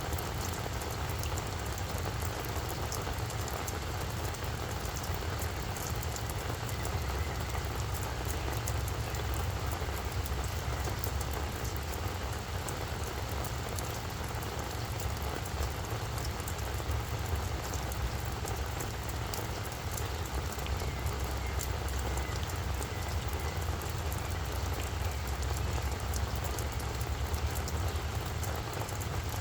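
Steady rain falling on a flower bed: an even hiss of rain with many small drop ticks, over a low steady rumble.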